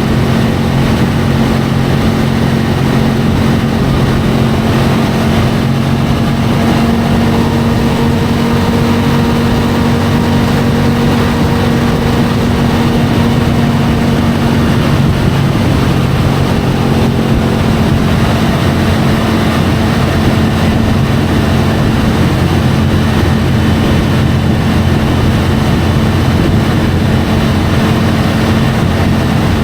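Triumph Tiger 850 Sport's inline three-cylinder engine running at a steady pitch while the motorcycle is ridden, under a loud rushing of wind and road noise. The engine hum is clearest in the first half and sinks further under the rushing noise later on.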